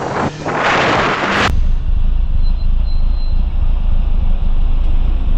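Wind rushing over a motorcycle rider's camera microphone. About one and a half seconds in it changes abruptly to a steady low rumble from a running motorcycle.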